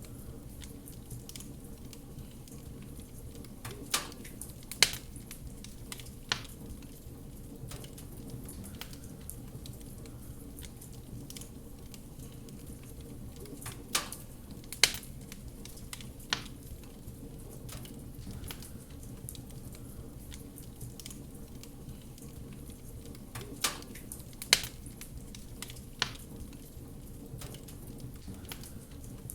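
Wood fire crackling in a fireplace: a steady low rumble from the burning fire with sharp pops of burning wood, coming in groups of three about every ten seconds.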